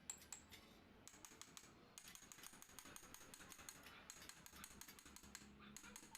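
Faint, rapid light clicking and tapping, with a thin steady high whine from about two seconds in.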